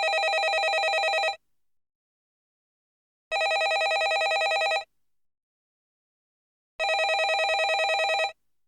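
Landline telephone ringing in a steady cadence: three rings of about one and a half seconds each, separated by pauses of about two seconds, each ring a fast trill.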